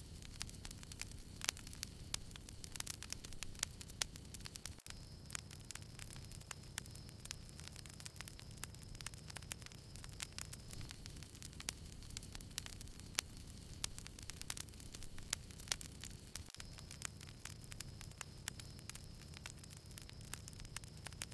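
Small campfire crackling: frequent sharp pops and snaps over a steady low rush of burning.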